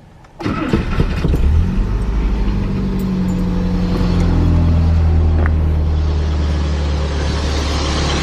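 Vehicle engine cranking and catching about half a second in, then settling into a steady idle through its original, still-uncut exhaust.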